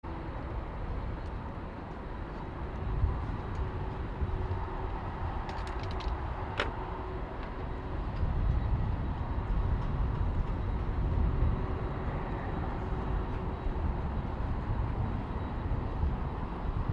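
Distant low rumble of an Airbus A380's jet engines on approach, mixed with wind on the microphone, growing a little louder about halfway through. A few sharp clicks sound around six seconds in.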